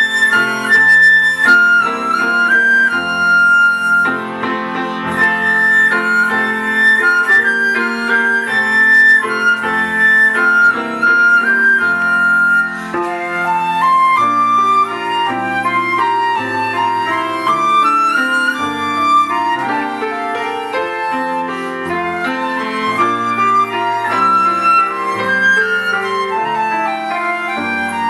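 Flute and piano playing a lyrical melody, the flute carrying the tune in long held notes over piano accompaniment. About halfway through, the melody moves down to a lower register.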